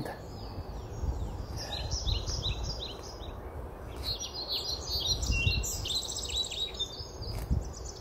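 Wild songbirds singing in spring woodland: bursts of short, high chirps and quick trills, several overlapping, with a low, uneven rumble underneath.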